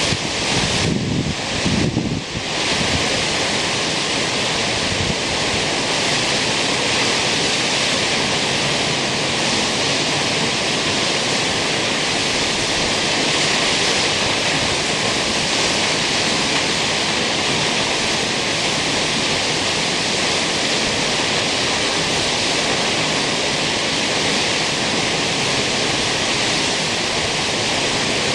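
Kegon Falls, a tall waterfall, thundering down in a loud, steady, unbroken rush of falling water. A few gusts of wind hit the microphone in the first couple of seconds.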